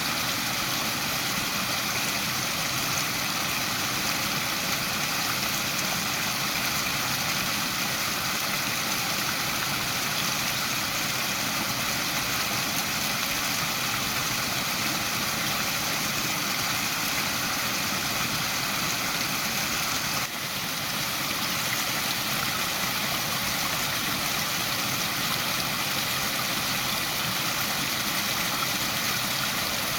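Waterfall: a steady rush of falling water, with a brief dip in level about twenty seconds in.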